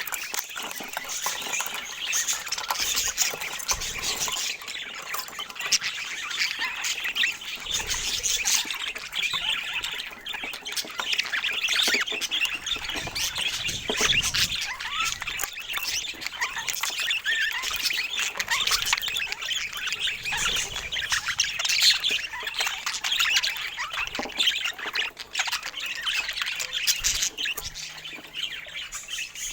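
A flock of parakeets chattering and squawking: many overlapping high calls and short squawks without a break.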